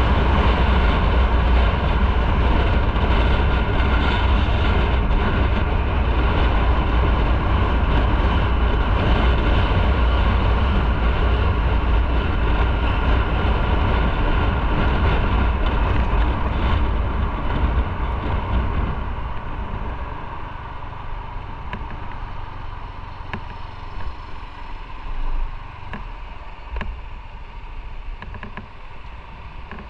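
Motorcycle on the move, heard on the onboard microphone: a steady low engine rumble mixed with wind noise. It gets markedly quieter about two-thirds of the way through, leaving a softer low hum with a few light knocks.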